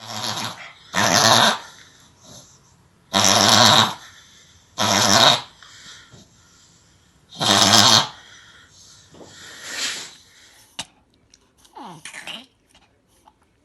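A dog reverse sneezing: a series of loud, forceful gasps drawn in through the nose. Five strong ones come in the first eight seconds, then two weaker ones as the fit dies down.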